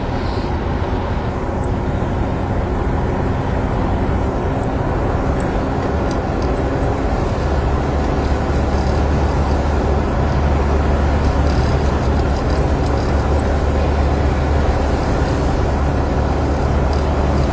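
Steady low rumble of a car heard from inside the cabin while driving, growing louder about halfway through.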